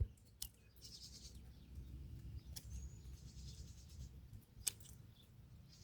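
Two short, sharp clicks of hand pruners snipping rose stems, one about half a second in and a louder one near the end, over quiet outdoor background with a brief faint bird chirp in between.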